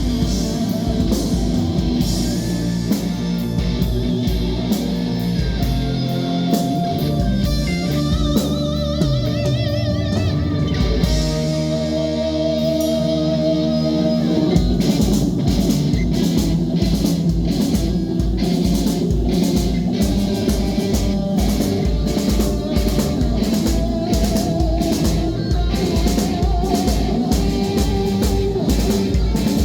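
Rock band playing an instrumental passage: electric guitar over a drum kit. About eleven seconds in the drums drop out under a held, wavering guitar note, and a few seconds later the full band comes back in with a fast, steady beat.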